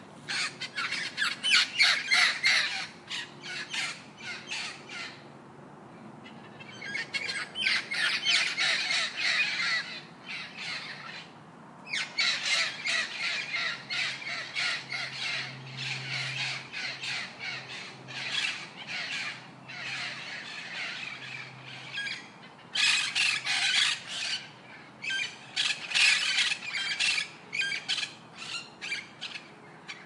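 Birds squawking: rapid runs of harsh calls in several bouts, with short pauses between them.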